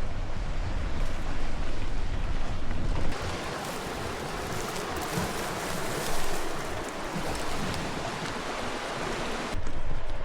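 Wind buffeting the microphone, then from about three seconds in an even rush of surf for several seconds, and wind noise again near the end.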